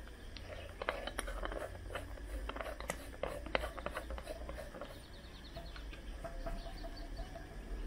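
Irregular clicks and knocks of hands and tools handling the compressor and its packaging during unboxing, thinning out after about four seconds.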